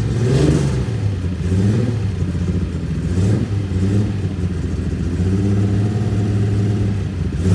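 Classic Datsun Z-car's engine running steadily at idle, its pitch rising and falling slightly with small changes of throttle.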